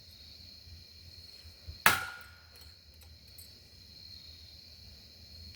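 A single hard strike on a ceiling fan's metal body about two seconds in, with a short metallic ring. Crickets chirr steadily underneath.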